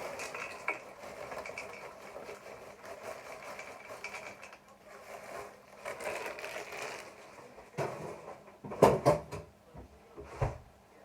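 Frozen peas being tipped into the curry pan, a dense rattling patter for several seconds that dies away, followed by a few sharp knocks of a utensil against the pan.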